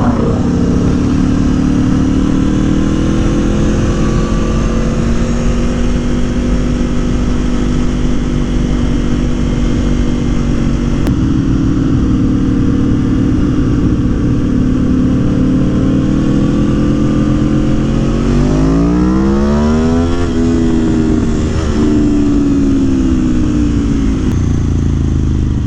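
Aprilia Tuono Factory motorcycle engine, fitted with a Gabro Racing Stage 3 tune, running on the road with its pitch rising and falling gently as the throttle changes. About eighteen seconds in the revs climb sharply under acceleration, then ease off a couple of seconds later.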